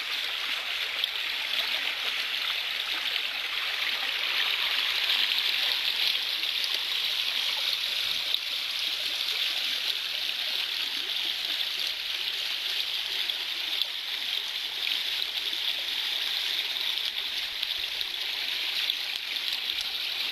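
Small stream flowing and babbling steadily, a continuous rush of water.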